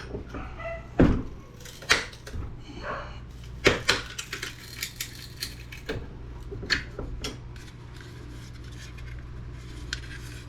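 Metal clanking and clicking as a computer hard drive's metal casing is forced open with a hand tool instead of being unscrewed. There are three loud strikes in the first four seconds, then lighter clicks, over a steady low hum.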